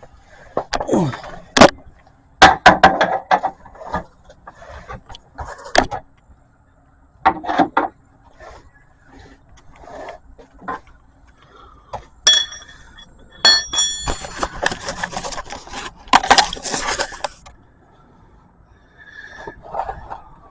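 Metal clinks and clanks of a drain pan and hand tools being handled under a pickup during an oil change, in scattered sharp knocks. In the second half there is a steady rushing noise lasting about three seconds.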